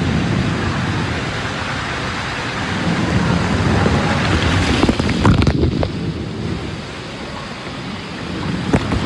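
Rushing, splashing water with a heavy low rumble, with sharper splashes and knocks about five seconds in and again near the end.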